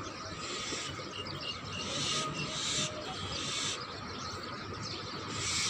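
Faint bird calls over steady outdoor background noise, with a few short stretches of hiss.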